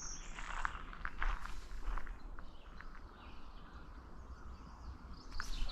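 Footsteps and light handling knocks with outdoor ambience. A high, thin bird note fades out right at the start.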